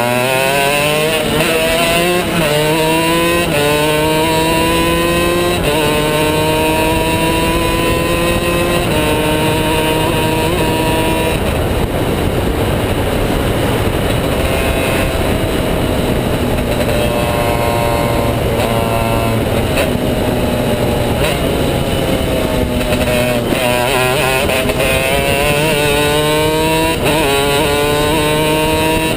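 Two-stroke shifter-kart engine at full throttle, its pitch climbing and dropping back at each upshift through several gears in a row. It then eases off and slows, and pulls up through the gears again.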